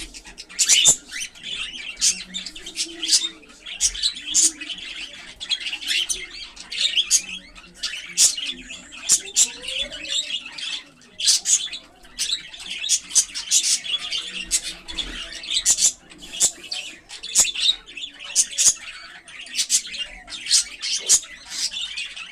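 Cockatiels chirping and calling: many short, sharp chirps overlapping one another without a break.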